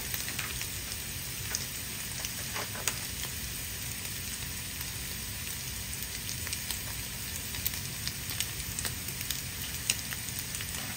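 Diced Spam and onions frying in a skillet: a steady sizzle with scattered small pops and crackles.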